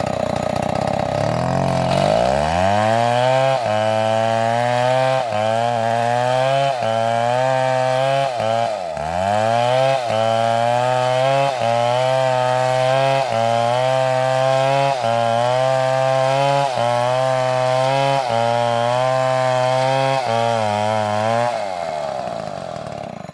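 Chainsaw revving up about two seconds in and running at high revs while cutting wood. Its pitch sags and recovers about every second and a half, with one deep dip near the middle. It winds down near the end.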